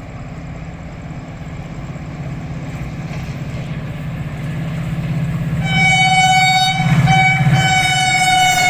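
Rehman Baba Express approaching at speed, the low rumble of its diesel locomotive growing steadily louder. About six seconds in, the locomotive's horn sounds in a long blast with a short break about a second later, its pitch sagging slightly near the end as the train draws near.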